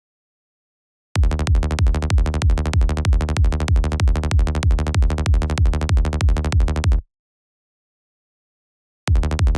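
Looped electronic kick drum and synth bass pattern playing back, made with the Kick 2 kick synthesizer and a Sylenth bass patch. It starts about a second in, stops short near seven seconds, and starts again about nine seconds in.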